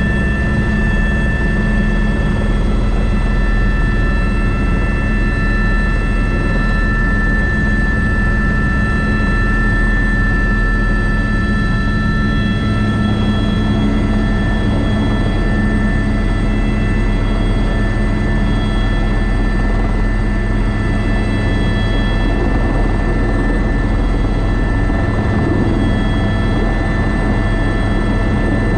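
Airbus AS350B3 (H125) helicopter running steadily in flight: a constant low drone of turbine and rotors with several steady high whining tones over it.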